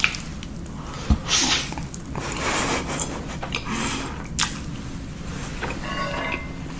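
Close-miked eating sounds: food being handled and squished, with a few sharp clicks between soft noisy stretches.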